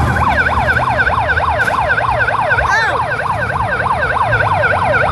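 Emergency vehicle siren in a fast yelp, its pitch sweeping up and down about four times a second, with one brief higher chirp midway, over a low rumble.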